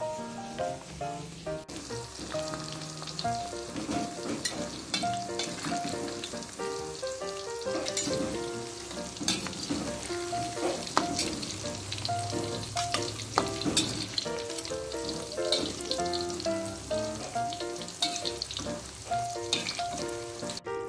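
Food deep-frying in hot oil in a wok, with a steady sizzle and scattered spatters and clinks as a metal skimmer and spatula stir and lift the pieces. Light background music plays throughout.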